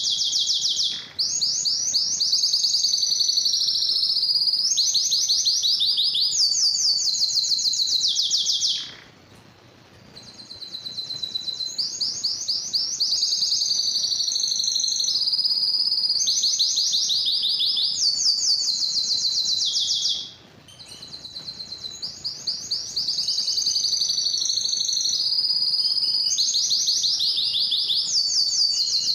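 Domestic canary singing a long, continuous song of rapid trills, its phrases shifting up and down in pitch. The song stops briefly twice, about nine and about twenty seconds in, then resumes.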